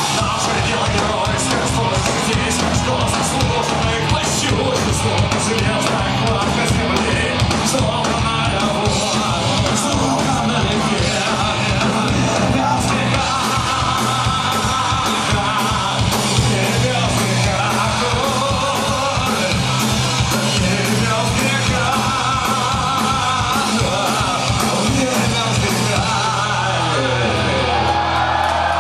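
Live punk rock band playing loudly, with shouted singing over fast drums and distorted guitar. Near the end the drums stop and the chords ring on as the song closes.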